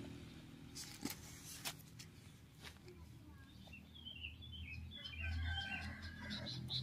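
Birds chirping faintly, a run of short quick chirps starting about four seconds in, after a few faint clicks.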